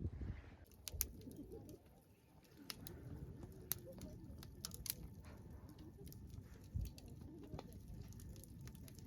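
Faint, low bird calls, with scattered sharp clicks.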